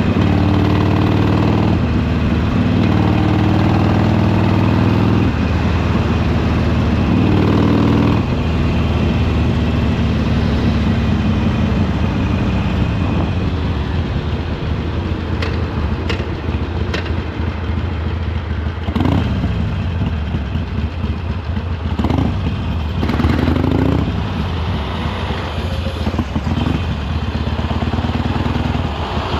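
Harley-Davidson Sportster Iron 883's air-cooled V-twin engine and exhaust under way, pulling strongly for the first several seconds, then running lighter with a few brief rises in engine pitch later on.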